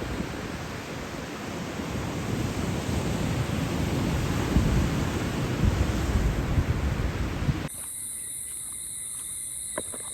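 Rough ocean surf breaking: a steady rush of water with swelling low rumbles. About three-quarters of the way in it cuts off abruptly, giving way to a quieter night scene with the steady high-pitched chirring of crickets and a couple of faint clicks.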